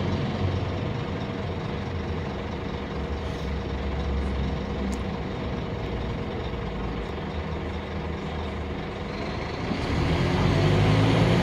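Scania K310UB bus's five-cylinder diesel engine running steadily, then building and getting louder about ten seconds in as the bus pulls away, with a faint high whine climbing alongside it.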